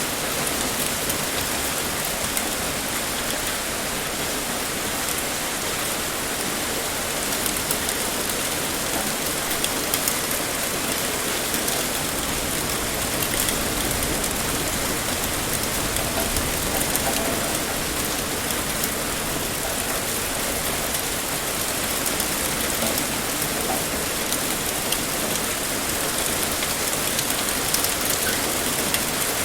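Heavy rain pouring steadily, with a dense patter of drops hitting a surface.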